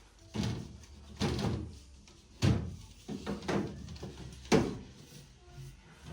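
Items being set down and shuffled about on refrigerator shelves: a series of about six knocks and clunks, the sharpest about two and a half and four and a half seconds in.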